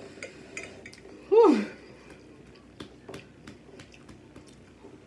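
Close-up chewing of a mouthful of food, with scattered small mouth clicks and smacks. About a second in, the eater makes one short vocal sound that falls in pitch.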